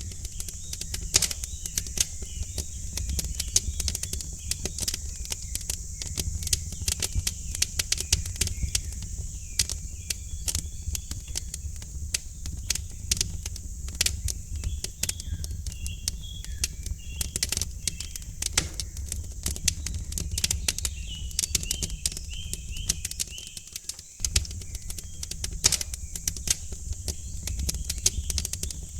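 Wood fire crackling and popping in a fireplace over a low rumble and a steady high hiss, with small birds chirping faintly now and then.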